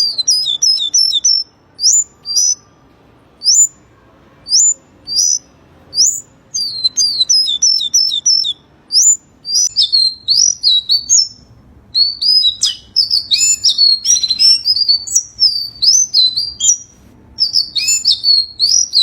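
Small birds chirping: runs of short, high chirps, each dropping in pitch, with gaps between the runs at first, then busier overlapping calling from about halfway through.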